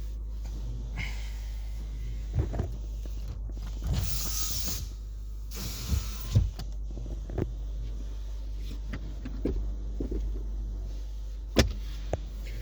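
Controls in a 2019 Nissan Sentra's cabin being worked: scattered clicks and knocks at irregular intervals, with a short rushing whir about four seconds in, over a steady low hum.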